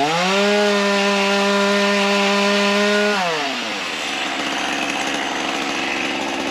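Ryobi 37cc two-stroke gas chainsaw revved up to a steady high pitch for about three seconds, then dropping back to a lower running note near the halfway point.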